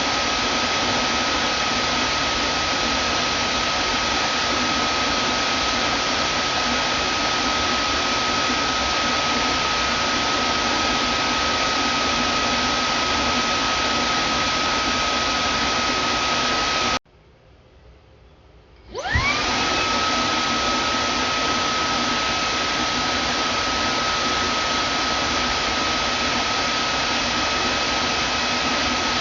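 Vacuum cleaner motor running steadily: a full rushing noise with a high whine. About two-thirds of the way through it cuts off suddenly, and after two seconds of near quiet it starts again, the whine rising quickly in pitch before it settles back to steady running.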